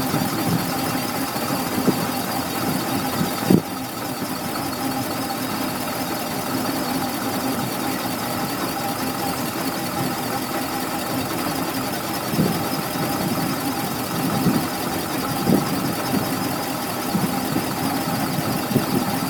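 Car engine idling steadily with a constant high-pitched whine over its running, and a sharp knock about three and a half seconds in.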